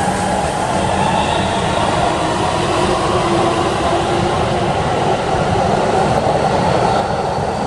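Keihan 3000 series electric train running through the station: a loud, steady rumble of wheels and motors with a faint whine from the traction motors that rises slowly in pitch.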